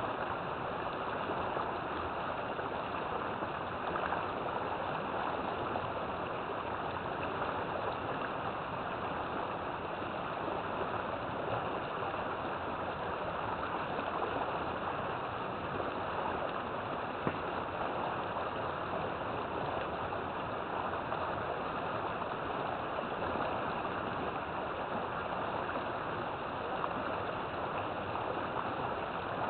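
River water flowing and gurgling in a steady, continuous rush.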